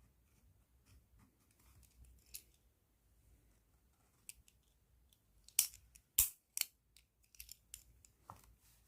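Faint scratching of a pen on paper, then a few sharp, crisp crinkles of a plastic bag around the pen, the loudest just past the middle.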